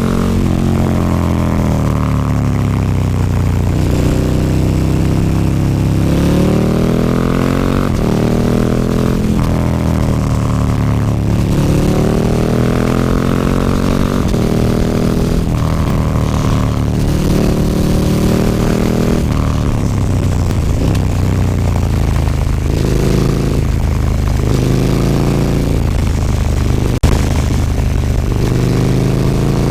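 KTM 1290 Super Duke R's V-twin engine through an Akrapovic slip-on exhaust with the dB killer removed, pulling under load with the revs climbing and dropping again and again as the bike accelerates and shifts or eases off. A sharp click about 27 seconds in.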